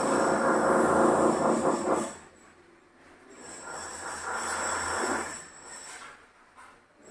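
A power tool running loudly and stopping about two seconds in, then running again more quietly for a couple of seconds.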